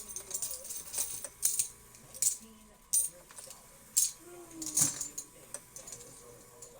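Quarters and plastic coin-pusher prize chips clinking as they are picked up and sorted by hand, in irregular separate clinks.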